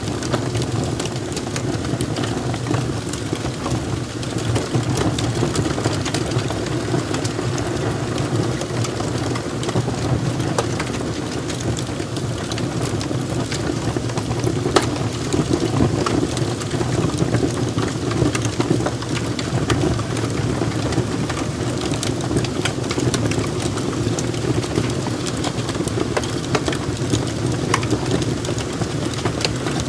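Wood fire burning in a fireplace: a steady low rush of flames with many irregular sharp crackles and pops from the burning logs.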